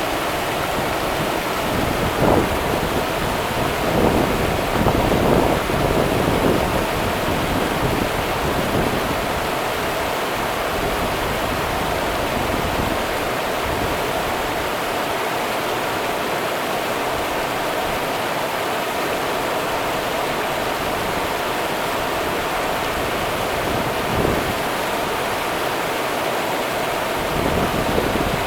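The Rio Grande river running, a steady rush of flowing water, with a few brief louder low bumps: about two seconds in, several between four and six seconds, and once near the end.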